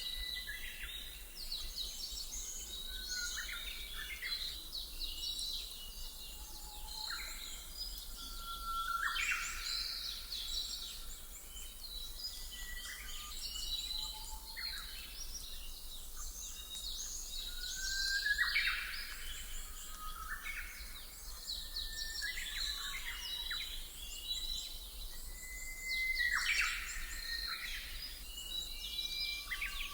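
Songbirds chirping and trilling, several birds calling over one another in quick, repeated phrases, over a steady low rumble of background noise.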